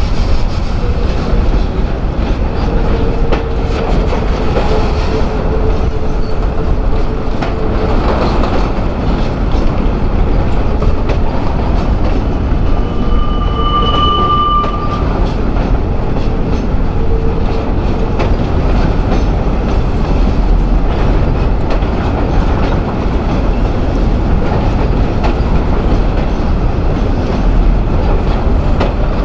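Freight train rolling by, its wheels clicking steadily over the rail joints, with a brief high-pitched wheel squeal about midway.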